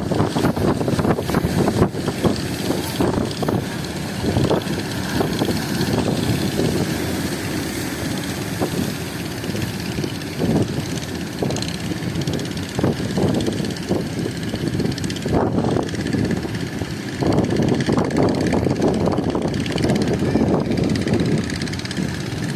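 Strong wind buffeting the microphone in an irregular rumble that never lets up.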